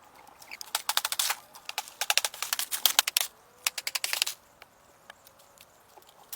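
Rapid runs of sharp clicks and crackles for about four seconds, then only a few faint ticks.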